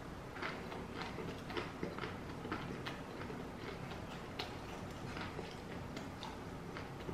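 Chewing a mouthful of crispy fried vegetable egg roll: a run of short crunches, about two a second.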